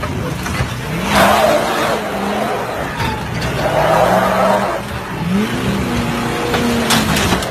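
Truck engine revving up about three times, each rev a rising pitch, with two long bursts of tyre-skid noise.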